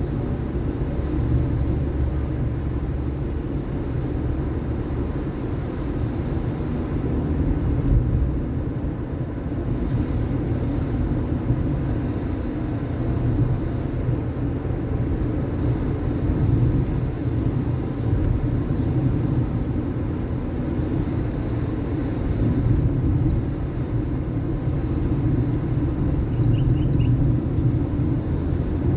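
A car driving, with a steady low rumble of engine and road noise. A few faint short high chirps come near the end.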